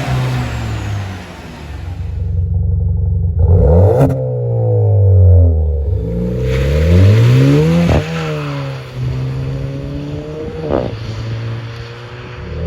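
Skoda Rapid's 1.4 TSI turbocharged four-cylinder engine revving through an exhaust with the rear silencer removed. The pitch rises and falls several times, and a few sharp cracks come about 4, 8 and 11 seconds in.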